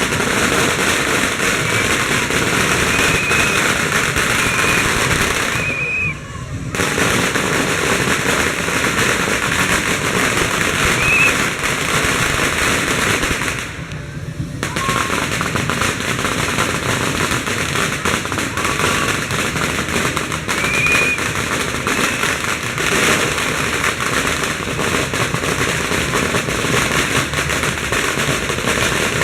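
Strings of firecrackers going off in a dense, continuous rapid crackle of bangs. The bangs thin out briefly twice, about six and fourteen seconds in.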